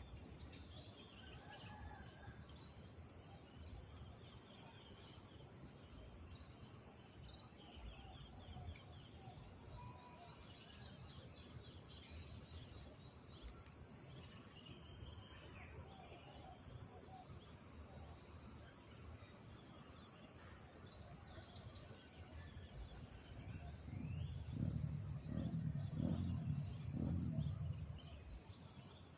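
Village morning ambience: a steady, high insect drone with scattered bird chirps and calls. A low rumble swells in the last few seconds and then fades.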